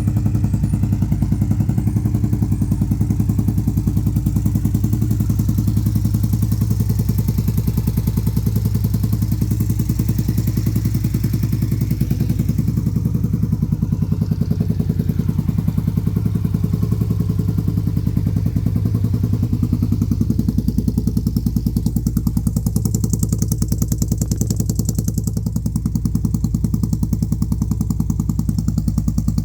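2018 Indian Scout V-twin engine on a Champion trike conversion idling steadily, with an even, rapid exhaust pulse.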